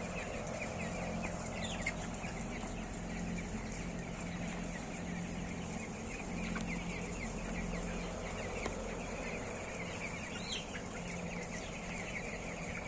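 A large flock of chickens inside a poultry house, many birds clucking and chirping at once in a dense, continuous chatter, with a low steady hum underneath.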